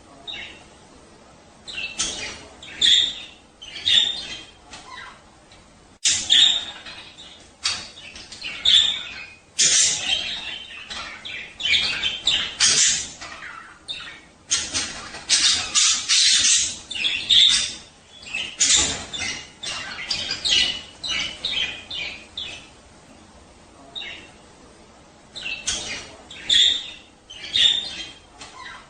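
Budgerigars chattering and squawking in irregular bursts of high chirps, busiest in the middle: the warbling chatter of male budgies in breeding condition.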